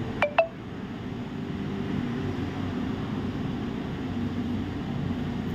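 Steady low hum of room machinery such as an air conditioner or fan, with two quick sharp chirps just after the start.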